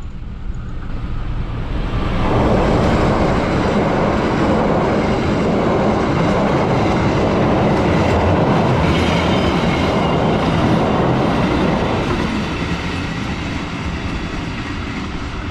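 Argo Wilis express passenger train passing close at speed, its wheels clattering over the rails. The sound swells about two seconds in, stays loud while the coaches go by, and eases off after about twelve seconds as the train moves away.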